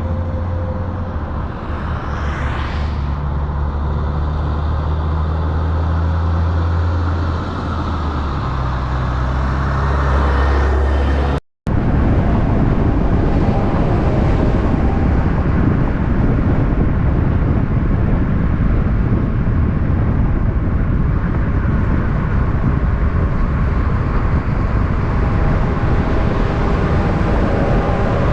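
Heavy diesel truck engine running with a steady low rumble. After an abrupt cut about eleven seconds in, a dense, even road-traffic rumble follows.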